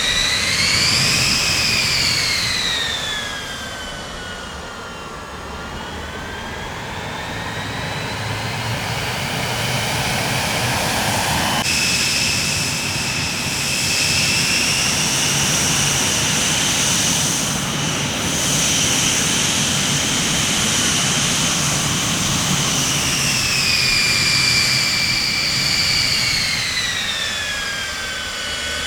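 Jet airplane engines running, a high turbine whine over a steady rumble. The whine rises and then falls in pitch early on, jumps abruptly to a higher, steadier whine about twelve seconds in, and falls again near the end.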